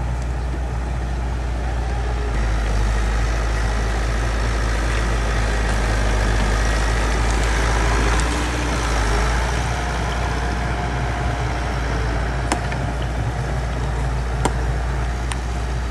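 Bulldozer's diesel engine running steadily. It grows louder for several seconds in the middle, then eases, with a few sharp clanks near the end.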